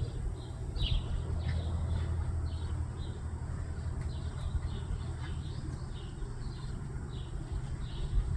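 Small birds chirping in short repeated high notes, about two a second, over a steady low rumble.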